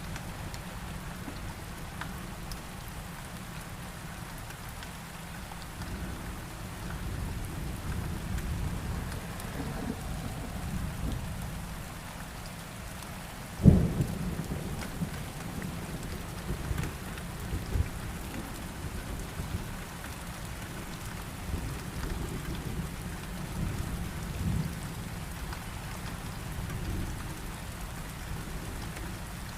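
Steady heavy rain with low rolling thunder. About halfway through a sharp, loud thunderclap cracks, followed by more rumbling.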